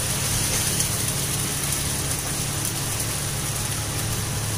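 Onion-tomato masala sizzling in hot oil in a steel kadhai over a gas burner: a steady frying hiss, with a steady low hum underneath.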